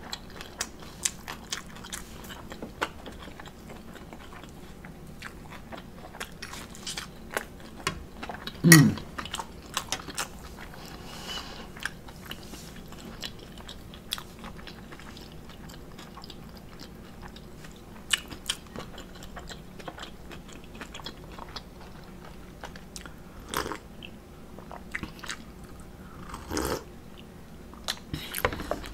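Close-miked chewing of a bacon, cheese and pepper omelet and waffle: many small wet mouth clicks and smacks. About nine seconds in comes one short low hum that drops in pitch, the loudest sound here.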